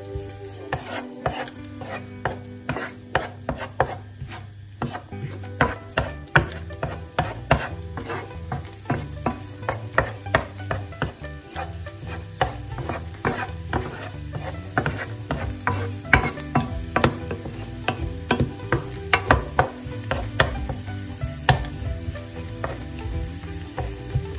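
Wooden spoon stirring chopped garlic in hot oil in a nonstick pan. It knocks and scrapes against the pan in many irregular clicks, over a light sizzle.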